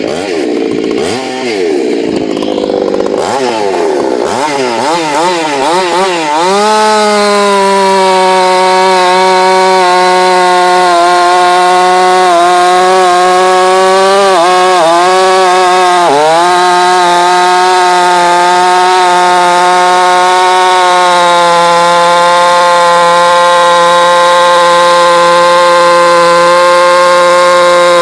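Jonsered 2188 two-stroke chainsaw with a modified muffler running at high throttle in oak. Its pitch swings up and down for the first few seconds, then holds high and steady, with brief dips around the middle.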